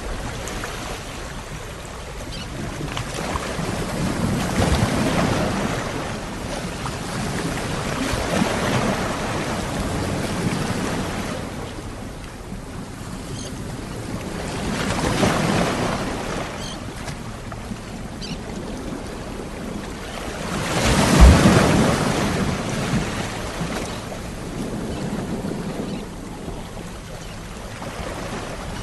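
Ocean waves washing onto the shore, swelling and ebbing every five or six seconds, with one louder surge about three quarters of the way through.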